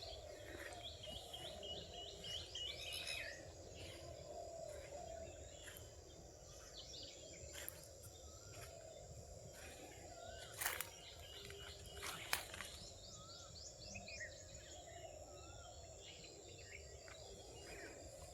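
Several forest birds calling at once, with rapid high trills and short warbling whistles repeating throughout. A few sharp clicks or snaps stand out about halfway through, the loudest moments.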